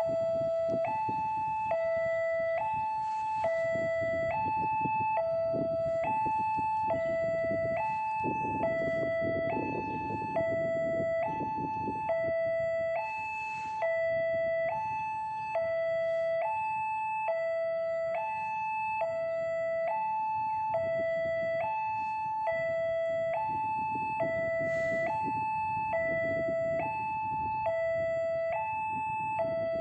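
Railway level-crossing warning alarm sounding, an electronic two-tone signal alternating steadily between a low and a high note, about one low-high pair every second and a quarter. It sounds over a low rumble of vehicle noise.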